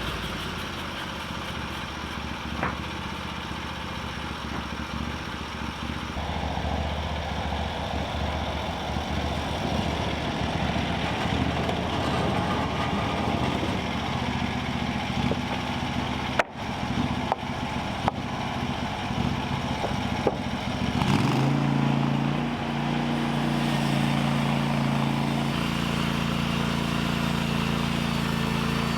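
A sawmill's engine runs steadily while boards are milled. About two-thirds of the way through the engine note changes, then holds a steady pitch.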